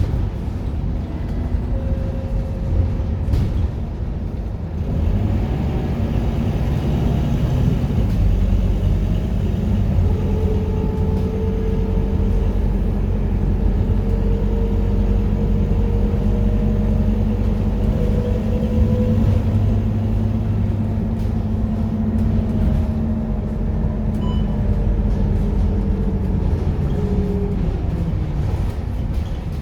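Scania K230UB city bus's diesel engine running under way. It picks up about five seconds in, its pitch climbing as it pulls, then runs steadily with a slowly rising note and eases off near the end.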